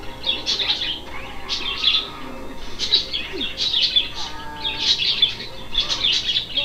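Birds chirping: quick high chirps in irregular clusters, several each second.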